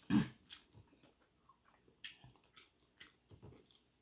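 Close-up mouth sounds of someone chewing grilled chicken eaten by hand: a louder smack right at the start, then scattered small wet clicks and lip smacks.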